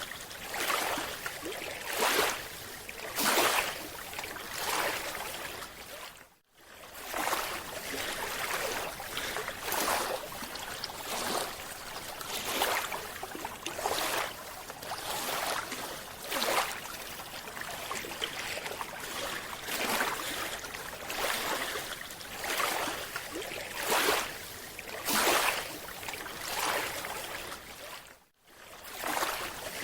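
Water sloshing and bubbling in irregular hissy surges every second or two. It cuts out briefly twice.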